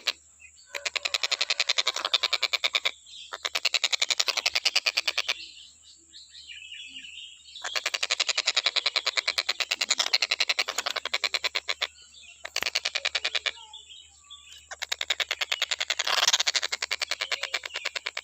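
Tengkek buto kingfisher calling in a rapid, rattling trill of fast repeated notes. It comes in several bursts of a few seconds each, with short pauses between them.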